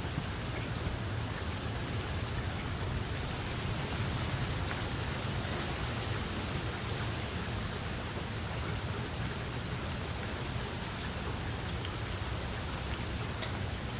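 Steady rain falling on open ground, an even hiss with a few distinct drop ticks and a low steady rumble underneath.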